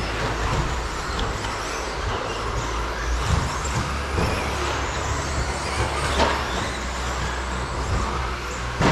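Electric 13.5-turn brushless stadium trucks racing on the track: motors whining and tyres running, with two sharp knocks, about six seconds in and near the end.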